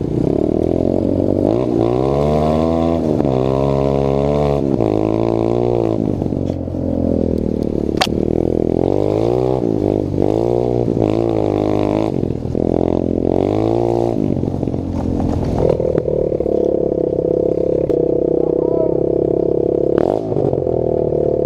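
Pit bike engine being ridden off-road, its pitch climbing and dropping again and again as the rider revs through the gears and backs off. About two-thirds of the way through it settles into a steadier, higher note. There is one sharp click about eight seconds in.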